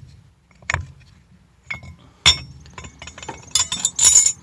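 Steel transmission clutch plates clinking as they are handled and set into a clutch drum: a few separate metallic clinks, then a quick run of them near the end.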